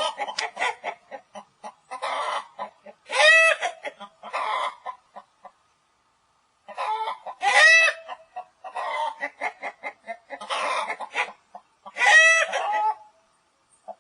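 Domestic chickens clucking in quick runs of short calls. A louder, drawn-out squawk comes about every four to five seconds, three in all, with a short silent pause midway.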